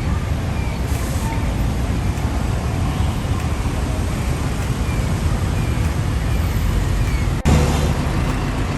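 Road traffic noise: a steady low rumble of passing vehicles. About seven and a half seconds in it breaks off for an instant and comes back louder and deeper.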